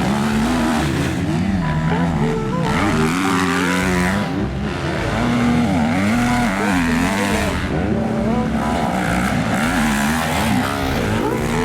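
Motocross dirt bike engines revving up and down over and over as the throttles open and close, more than one bike heard at times.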